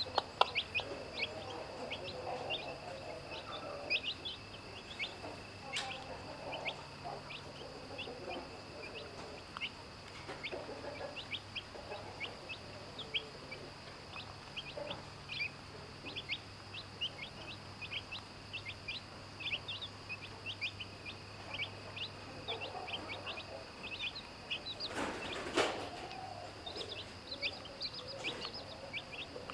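Chicks peeping continually in short high chirps while a mother hen clucks low at intervals. A brief louder noise comes about 25 seconds in.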